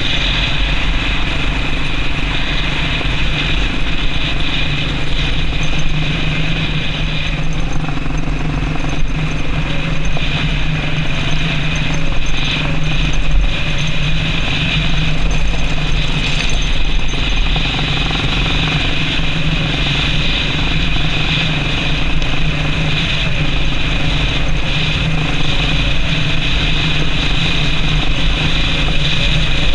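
Yamaha Serow XT225's single-cylinder four-stroke engine running steadily as the bike is ridden. The engine note eases off for a stretch in the middle, then steadies again.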